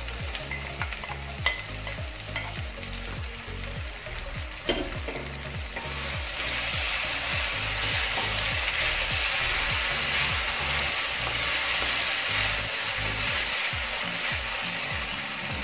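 Chopped tomatoes and onions sizzling in hot oil in a kadai while a wooden spatula stirs and scrapes them around the pan; the sizzle grows louder about six seconds in.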